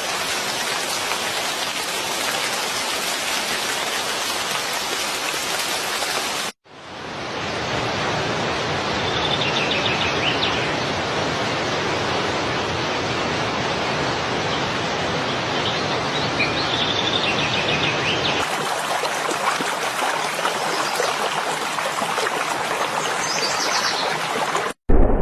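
Flowing stream water rushing steadily, with a few faint bird chirps above it. The sound breaks off briefly twice, at cuts between recordings.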